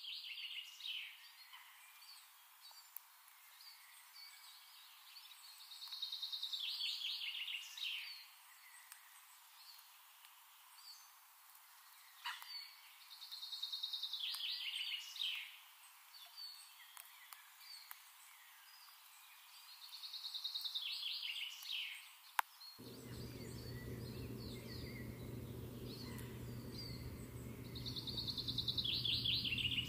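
A songbird repeating the same song about every seven seconds: a roughly two-second phrase of fast trilled notes that falls in pitch at its end. A low steady hum starts about three quarters of the way through.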